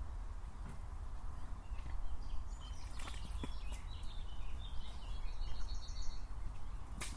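Small birds chirping and singing, with a rapid trill of about eight notes a second around five seconds in, over a steady low rumble. Two sharp clicks, one about three seconds in and one near the end.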